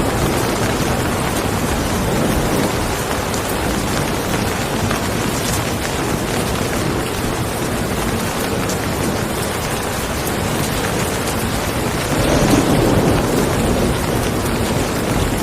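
Steady rain falling, with a low rumble of thunder swelling up about twelve seconds in.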